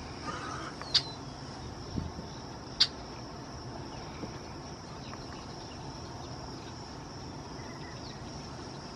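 Red-winged blackbird giving two short, sharp call notes, one about a second in and one near three seconds, over a steady high-pitched background drone.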